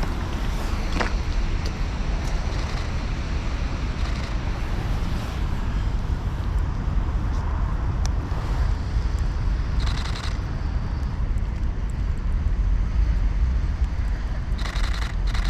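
City street ambience: a steady low rumble of road traffic, with a few faint clicks and short rustling sounds.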